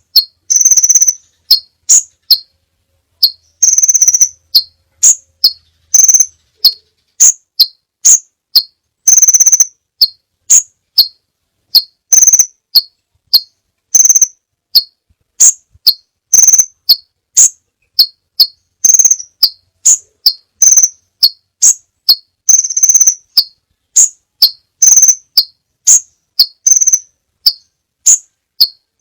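Crimson sunbird calling: sharp, high-pitched chips repeated about twice a second with clean gaps between them, broken by several longer buzzy trills.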